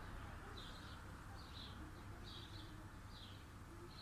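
A small songbird chirping, short high notes about once a second, some in quick pairs, over a faint low rumble.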